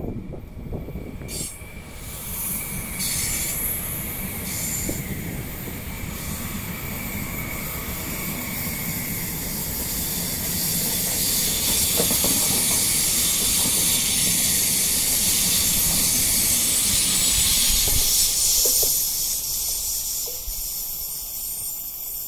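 Frecciarossa 1000 high-speed electric train passing at reduced speed: a rushing wheel-and-rail noise that builds as it approaches, is loudest as the cars go by, then eases as it moves away. A faint high whine in the first several seconds drops slightly in pitch, and a few sharp clicks come as the wheels pass.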